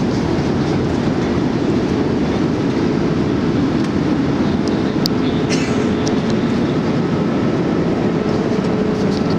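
Steady rumble of airflow and engine noise inside a Boeing 787 Dreamliner's passenger cabin in flight, with a few faint clicks.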